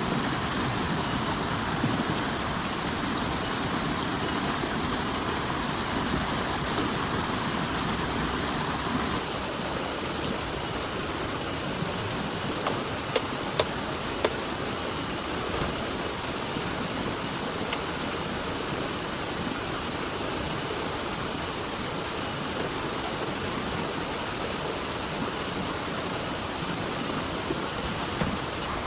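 Heavy rain pouring down in a steady rushing hiss, easing slightly about nine seconds in, with a few sharp taps of drops partway through.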